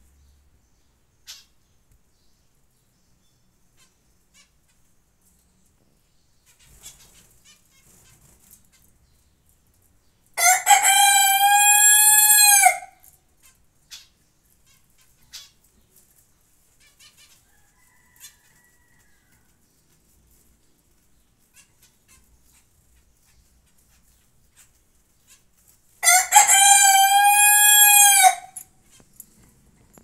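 A loud, drawn-out bird call, heard twice about fifteen seconds apart, each lasting about two and a half seconds. Faint scattered clicks fill the pauses between the calls.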